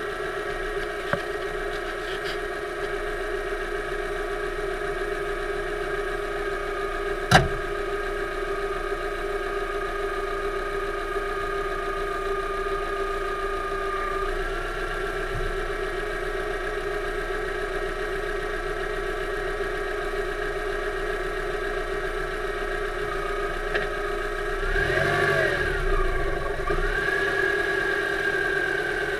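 The 2008 Subaru Impreza 2.5i's flat-four engine running steadily, heard from the engine bay. There is a single sharp click about seven seconds in. About 25 seconds in the engine briefly revs up and back down, then settles at a slightly higher pitch.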